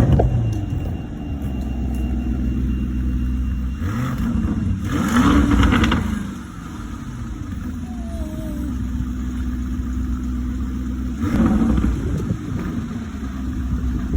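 Car engines running and revving, starting with a sudden loud burst, with a louder rising rev about four to six seconds in and another loud rev about eleven seconds in.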